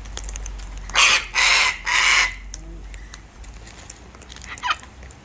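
Cockatoo screeching three times in quick succession, harsh and loud, about a second in. A shorter, fainter bird call follows near the end.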